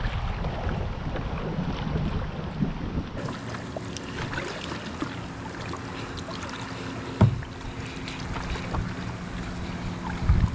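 A kayak moving through water, with water sounds and wind buffeting the microphone. A few seconds in, a steady low hum sets in, and a single knock comes about seven seconds in.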